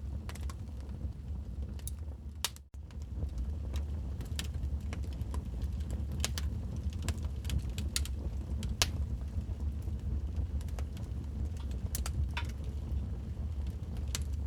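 Wood fire crackling in a fireplace: irregular sharp pops and snaps over a steady low rumble. The sound cuts out for an instant about two and a half seconds in.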